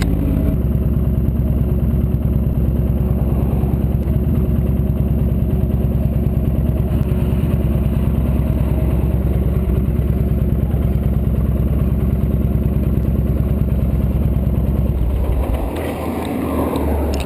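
Victory V92C motorcycle's V-twin engine running steadily with an even, low firing beat. About fifteen seconds in it drops away and quietens.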